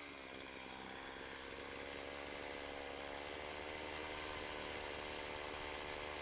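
Chainsaw engine idling steadily after a cut, its note settling low after the throttle is released; the chain still creeps a little at idle, which turning down the idle has only partly cured.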